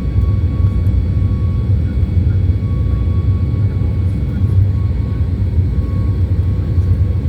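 Boeing 737 MAX 8's CFM LEAP-1B jet engines running steadily: a loud, even low rumble with a thin constant whine near 1 kHz.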